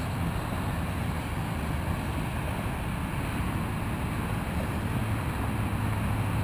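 Steady wind rumbling and buffeting on the microphone, with a low hum underneath.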